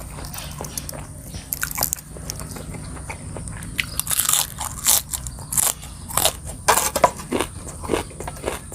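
A person biting and chewing crunchy food close to the microphone: a spicy seafood papaya salad eaten with fresh raw vegetables. The crisp crunches come thicker and louder from about halfway through.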